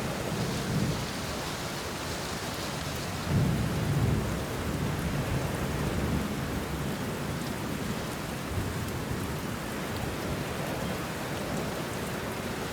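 Steady rain falling on banana leaves and bush, with low rolls of thunder rumbling under it; the loudest roll swells about three and a half seconds in.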